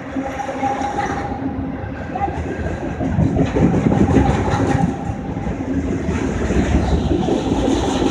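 Norfolk Southern auto rack freight train rolling past at about 45 mph: a steady rumble of steel wheels on the rails, loudest about three to five seconds in.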